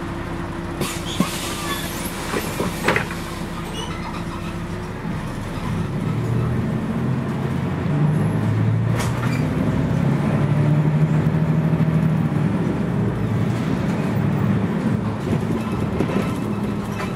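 Scania CN113CLL city bus under way, heard from inside: its Scania DSC 11.71 diesel engine runs steadily, with a few knocks and rattles in the first three seconds. From about six seconds in, the engine note grows louder and rises a little as the bus accelerates.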